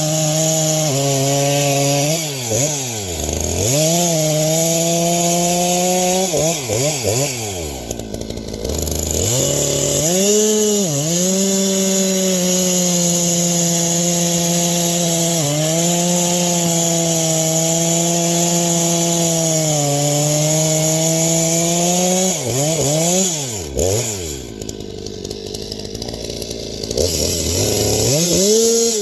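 Two-stroke chainsaw running at high revs through cuts, its pitch sagging under load and picking back up. It drops to idle a few times, briefly near 3 and 8 seconds in and for longer near the end, then revs up again.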